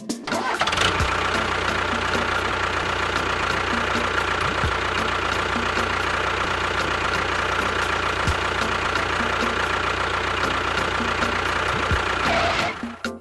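An engine running steadily, starting just after the beginning and cutting off near the end, with a faint low thump about every three and a half seconds.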